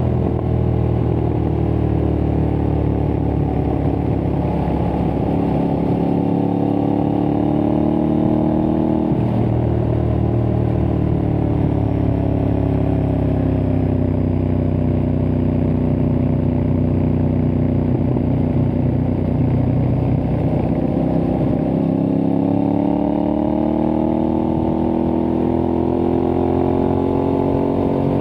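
Aprilia Tuareg 660's parallel-twin engine through a replica Akrapovic exhaust, under way with revs rising and falling as the throttle is opened and closed, dipping twice and climbing again.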